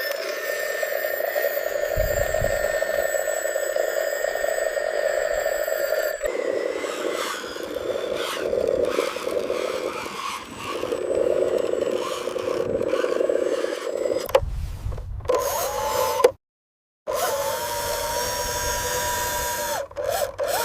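Small electric motors and gearing of radio-controlled construction machines whining steadily, with scraping and clattering as they work. The sound drops out briefly about three quarters of the way through, then a higher steady whine follows.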